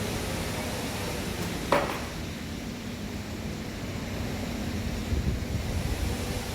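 Steady background noise with a low hum, broken by a single sharp knock a little under two seconds in.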